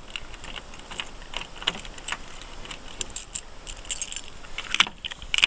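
A bunch of keys on a ring jangling and clinking as they are handled, with many short, irregular metallic jingles.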